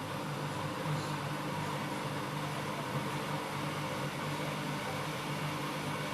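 Siemens iQ washing machine running, a steady motor hum over an even rushing noise.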